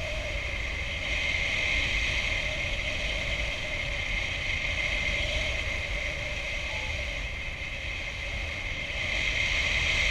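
Wind rushing over the microphone in paraglider flight: a steady low rumble with a steady high whistle over it, swelling a little near the end.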